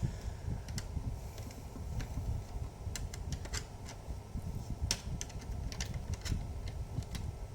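Light, irregular plastic clicks and taps of small laptop parts being handled and set down, over a low rumble.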